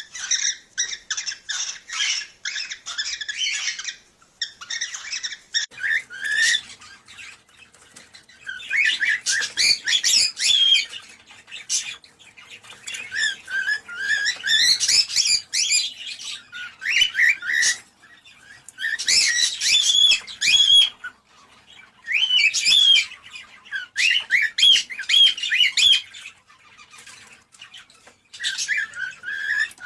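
Cockatiels chirping, squawking and warbling in repeated bouts of a few seconds, with short pauses between them.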